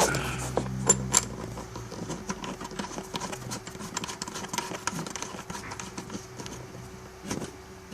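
Coax jumper cables being handled and a connector being fitted to the back of a CB radio: irregular small clicks and taps, with two sharper clicks about a second in, over a faint steady hum.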